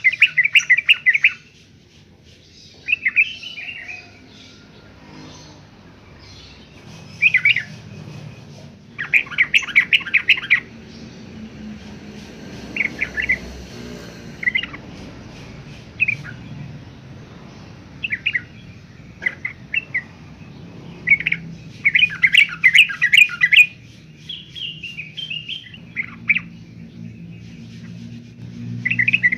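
Yellow-vented bulbul singing: repeated short bouts of rapid, bubbly chattering notes, each about a second long, with gaps of a few seconds between them.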